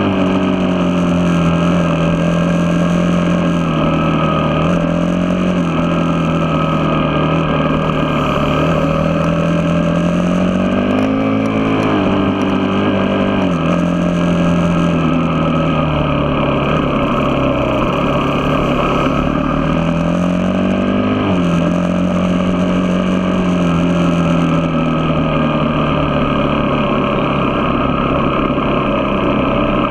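A vehicle engine running steadily under way. The revs climb twice and drop sharply each time, as they do at an upshift.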